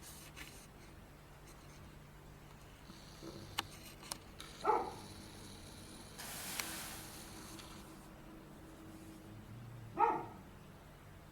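A dog barking single barks, two of them about five seconds apart, with a short hiss between them.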